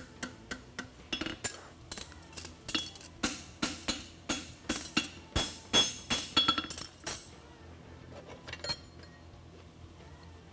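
Hand hammer striking a hot steel concave horseshoe on an anvil, a quick run of ringing blows, about three a second, that stops about seven seconds in, with a few lighter taps after.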